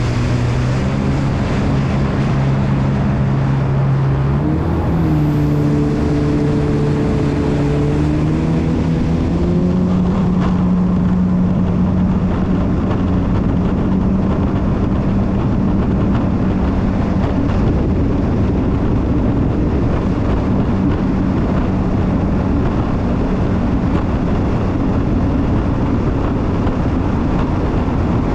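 Jet ski engine running under way over the water. Its pitch climbs in a couple of steps in the first ten seconds, then holds steady.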